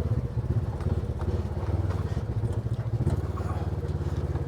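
Engine of a small off-road vehicle running at low speed as it crawls over a rocky, washed-out dirt track, with a few knocks and rattles from the bumps.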